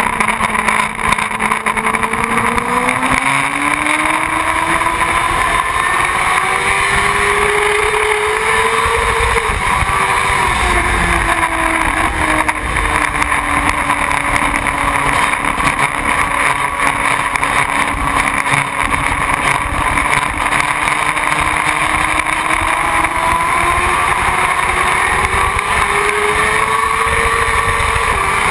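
Motorcycle engine running under way. Its pitch climbs a few seconds in, drops back after about ten seconds, and climbs again near the end as the speed changes.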